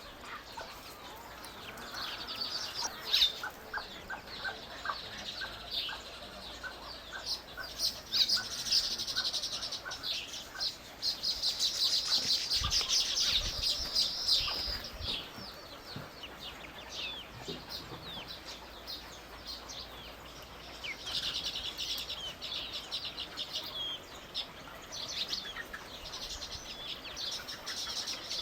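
Small birds chirping, dense runs of quick high calls that swell and ease off, loudest in the middle.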